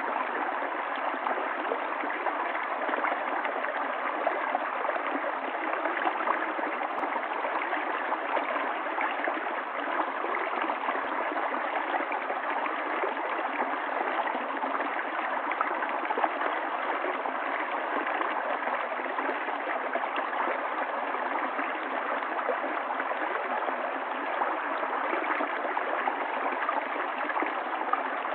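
Water running steadily in a stream: an even, unbroken rush of flowing water.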